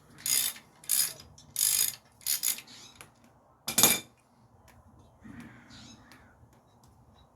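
Hand ratchet wrench driving a bolt on an engine mount: several quick ratcheting strokes about two-thirds of a second apart, then one last, loudest stroke about four seconds in. Faint handling sounds follow.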